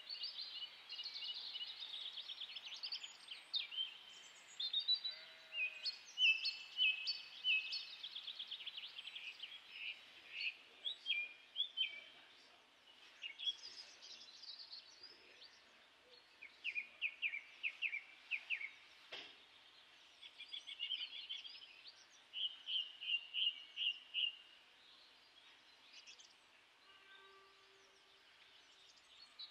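Several songbirds singing, one quick trilled or chirping phrase after another, sometimes overlapping, over a faint steady hiss.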